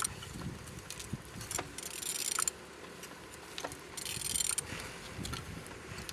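Renault M9R diesel engine being turned over by hand, with scattered metallic clicks and two bursts of hissing noise as the crank goes round.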